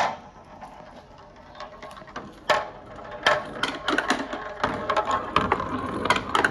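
Many marbles rolling and clacking through a marble run of PVC pipe and plastic rain gutters: a single click at first, then scattered clicks that build into a dense, continuous clatter and rolling rumble about two and a half seconds in.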